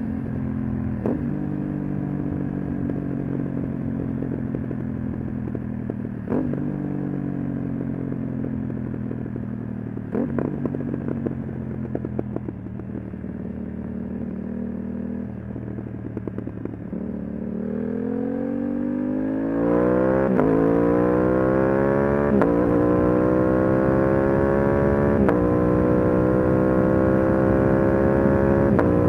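Aprilia RS 660 parallel-twin engine through an SC1-R exhaust, first rolling along with engine speed slowly easing off and a few short sharp snaps. About two-thirds in, the engine speed climbs steeply and it gets louder, with three quick upshifts a couple of seconds apart briefly pulling the pitch down.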